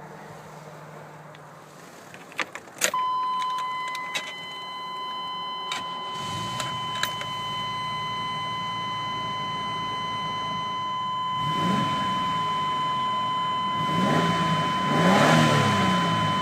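A few sharp clicks, then the Astro van's warning buzzer comes on as a steady high tone and keeps sounding. A low mechanical hum joins about six seconds in and rises and falls in pitch several times near the end.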